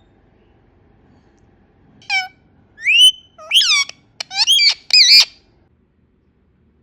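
Indian ringneck parrot giving a quick run of about five loud calls, several sliding up in pitch, starting about two seconds in.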